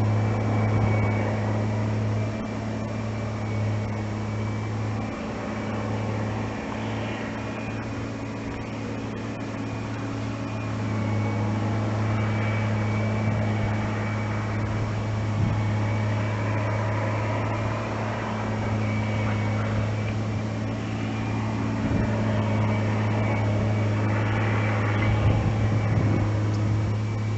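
A steady low mechanical hum from a motor running, with a faint high whine above it and a background noise that swells and fades slowly.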